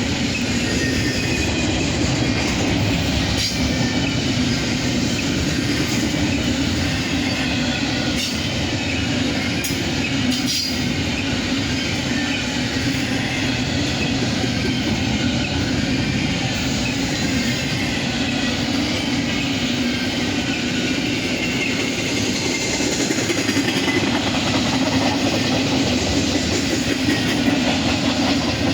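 Intermodal freight train cars rolling past steadily, steel wheels rumbling on the rails with a few sharp clicks over the rail joints.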